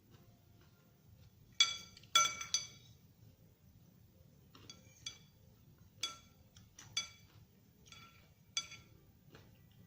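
Eating utensil clinking against a ringing dish, about eight light strikes scattered over several seconds, the two loudest close together about two seconds in.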